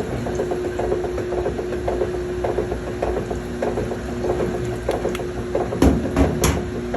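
Washing machine tub spinning in its spin cycle: a steady whine under a dense, rattling clatter, with three louder knocks near the end.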